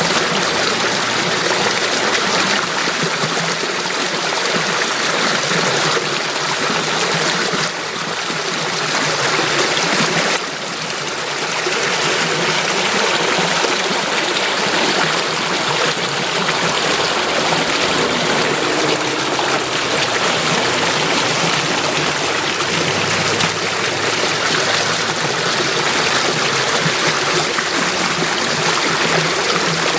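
Flowing water from a stream, a steady rushing and trickling, with a slight drop in level about ten seconds in.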